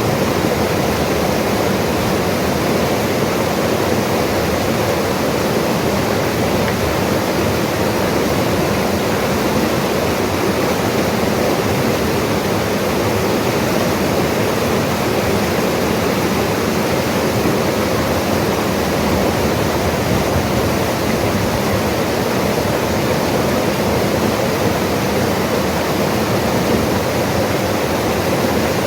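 Mountain river rushing over rocks, a steady, loud, unbroken water noise.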